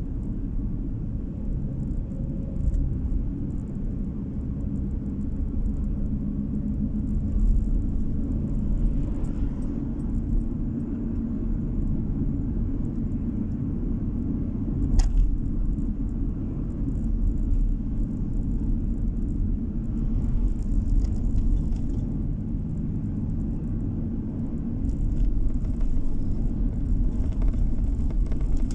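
Car driving along a road, heard from inside the cabin: a steady low rumble of road and engine noise, with a single short knock about halfway through.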